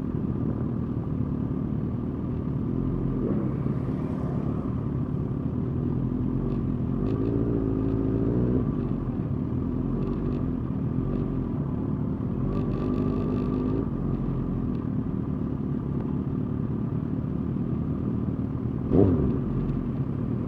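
A group of motorcycle engines running steadily at low road speed, with engine pitch wavering in a few stretches. About 19 seconds in, a short, sharp throttle blip rises and falls, the loudest sound of the stretch.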